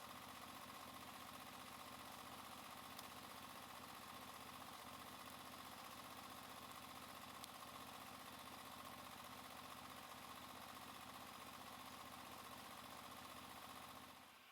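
Faint engine running steadily, with an even hum that cuts off abruptly at the end.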